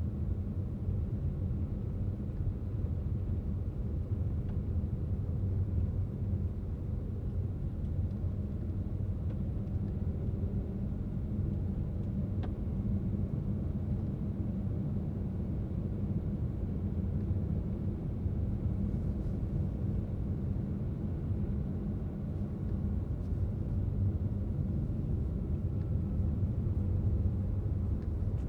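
Car driving along a highway: a steady low rumble of engine and tyre road noise.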